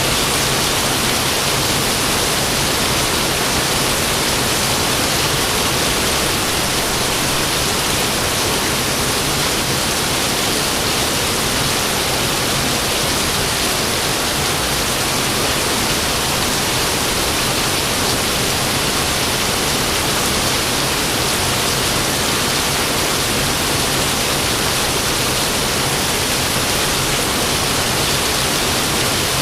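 Steady rain falling: an even hiss that does not change, with no thunder.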